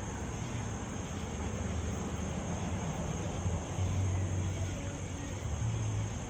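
Steady low rumble of vehicle engines, swelling and easing a little, over outdoor background noise.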